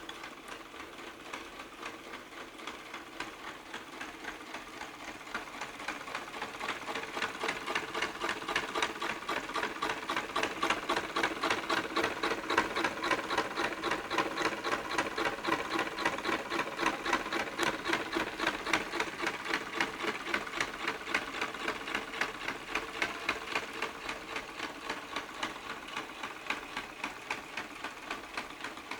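Electromagnetic piston engine running with a rapid, even clatter of piston strokes. It grows louder a few seconds in and eases off again near the end.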